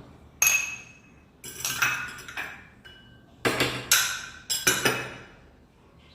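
Kitchen dishes and utensils clinking and knocking: a string of about seven or eight sharp hits, some ringing briefly like metal or glass.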